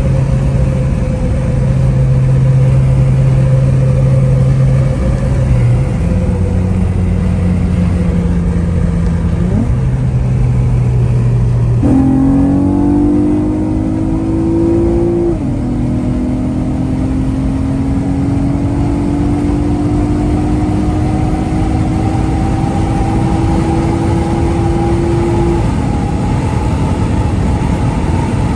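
Acura TL SH-AWD's 3.7-litre V6, fitted with an intake, J-pipe, precat delete and custom exhaust, heard from inside the cabin. It runs fairly steadily at first, then about twelve seconds in it goes to full throttle and the revs climb. The pitch drops at an upshift a few seconds later, then climbs steadily again until a second upshift near the end.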